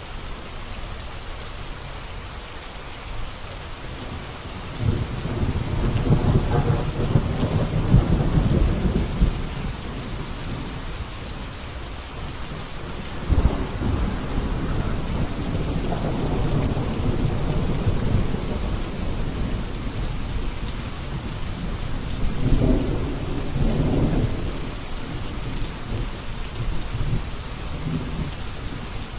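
Steady rain falling, with three low rolls of thunder swelling and fading over it.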